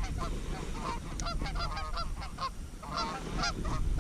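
A flock of geese honking, many short calls overlapping one another, growing louder and busier near the end as the birds come in.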